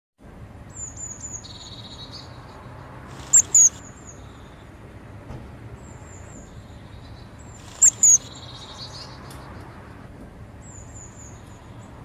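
High, thin bird calls: short falling chirps repeating every few seconds, with two pairs of loud, sharp notes about three and a half and eight seconds in. A faint, steady low hum runs underneath.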